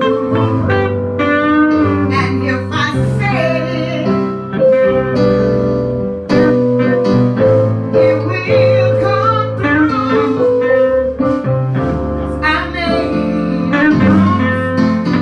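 Live gospel music: a voice singing long, bending notes over guitar and keyboard accompaniment with sustained bass and chords.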